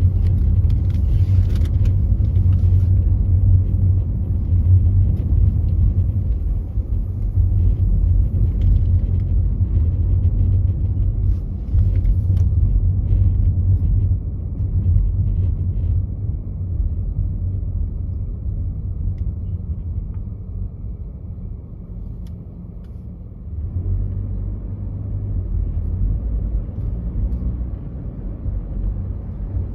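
Car driving on a freeway: a steady low rumble of road and engine noise. It eases off for a few seconds about three-quarters of the way through, then builds again.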